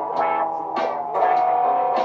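Layered looped guitar music: sustained guitar notes over a steady rhythm with sharp accents about twice a second.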